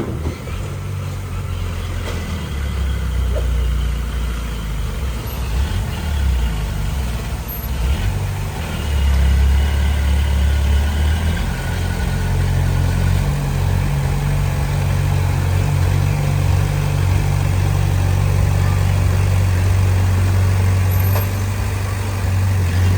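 Heavy diesel engine of earthmoving machinery running under changing load, a low steady drone whose pitch shifts several times, about 3, 9 and 12 seconds in.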